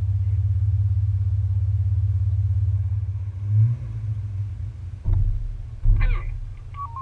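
Jeep Wrangler TJ engine idling with a steady low rumble, which drops in level about three seconds in. A few short knocks follow near the end.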